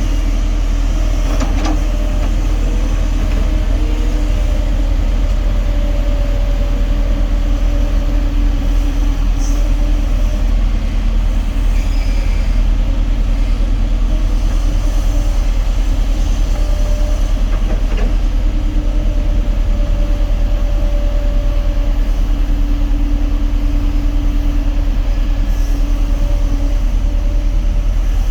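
Kobelco SK260 excavator's diesel engine running steadily and loud, with a higher whine that comes and goes every few seconds.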